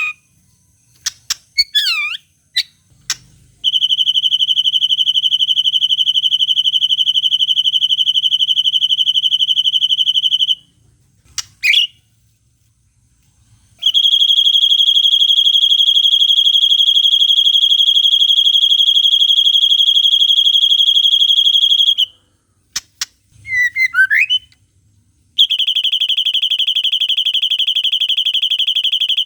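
White-rumped shama (murai batu) song: long, steady, rapid high trills of the 'cililin panjang' kind, each held for several seconds. Short, quick sweeping whistles and clicks come between them, about a second in, near twelve seconds and about twenty-four seconds in.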